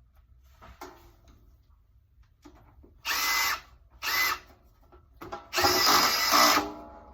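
Power drill run in three bursts, two short and then a longer one of about a second, its motor whining up to speed each time, used to drive fasteners while assembling a metal display rack.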